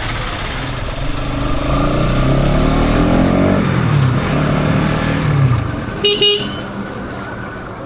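Bajaj Pulsar NS200 motorcycle on its stock exhaust, the engine note rising and falling in pitch as it accelerates and eases off. About six seconds in, a horn honks once, briefly.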